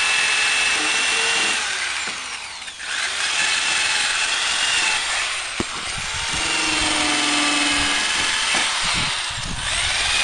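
Power grinder grinding steel to clean it before welding: a steady, loud grinding hiss over a high motor whine, easing briefly about three seconds in.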